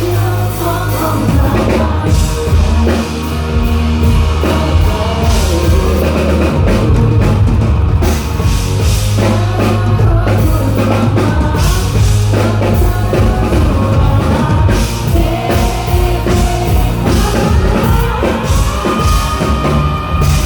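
Rock band playing live and loud: drum kit, a steady bass line, guitars and a lead vocal singing.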